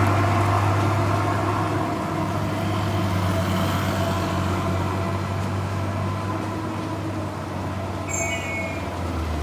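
Truck engine running with a steady low drone, easing slightly in loudness over the first couple of seconds. A brief high-pitched squeal sounds about eight seconds in.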